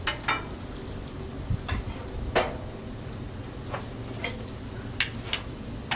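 Chicken strips and waffles frying on a Blackstone flat-top griddle: about nine sharp pops and crackles, spread irregularly, over a steady low hiss.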